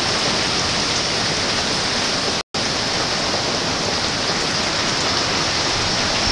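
Heavy hurricane rain pouring down in a steady, dense hiss. The sound cuts out for an instant about two and a half seconds in.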